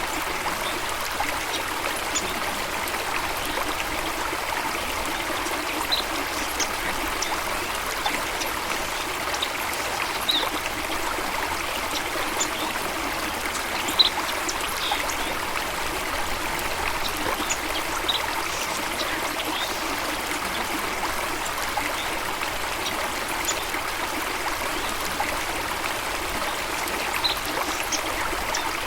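Stream water running and trickling in a steady, even wash, with a few brief high-pitched sounds scattered through it and one short louder splash-like peak about halfway.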